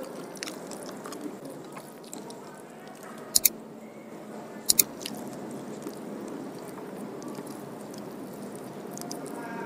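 Close-miked chewing of rice and curried fish eaten by hand, with soft wet mouth sounds and small clicks. Two sharp double clicks, the loudest sounds, come about three and a half and five seconds in: the mouse-click sound effect of a subscribe-button animation.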